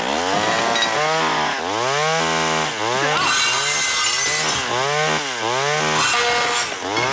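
Chainsaw revving up and down over and over, its engine pitch swelling and falling about ten times, with two stretches of harsh hiss about three seconds in and about six seconds in.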